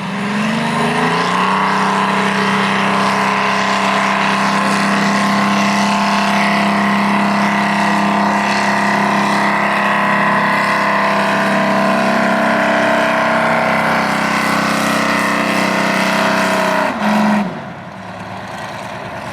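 Pulling vehicle's engine held at full throttle dragging a weight sled: the note climbs in the first second or so, then holds a steady, loud drone, blips briefly about 17 seconds in and drops off suddenly to a much quieter idle as the run ends.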